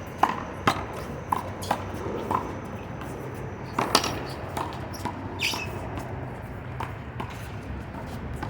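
One-wall handball rally: the small rubber handball is slapped by hand and smacks off the wall and the pavement in a quick series of sharp hits, thickest in the first four seconds and sparser after.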